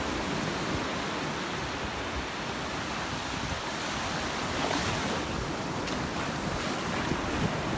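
Ocean waves breaking and washing on the beach, with wind buffeting the microphone; a wave surges a little louder about five seconds in.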